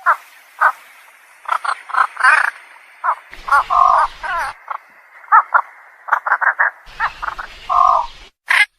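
Egrets calling: a rapid series of short pitched calls, some coming in quick runs of three or four, with brief gaps between.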